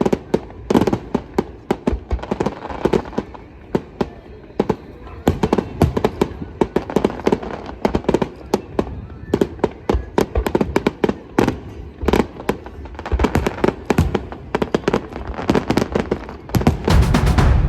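Fireworks going off in quick succession: many sharp bangs and crackles, building to a dense, loud volley near the end.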